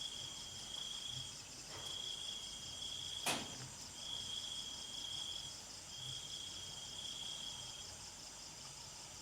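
Night insects chirring: a steady high buzz with a repeating trill, each about a second and a half long with short gaps between. A single sharp click a little over three seconds in.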